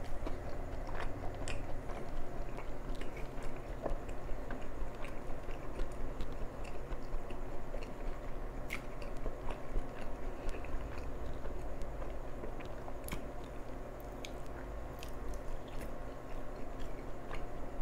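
A person chewing and biting into a soft-bread chicken sandwich with melted cheddar, close to the microphone: wet mouth sounds with many scattered small clicks.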